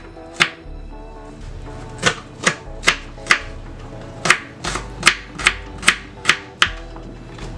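A kitchen knife chopping on a cutting board: about a dozen sharp knocks, mostly two or three a second, with a pause of over a second near the start. Background music plays under it.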